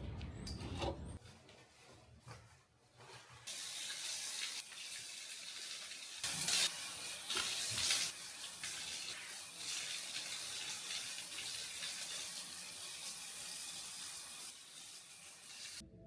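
Water running from a tap and splashing into a basin, starting about three seconds in, briefly louder a little past the middle, and cutting off abruptly near the end.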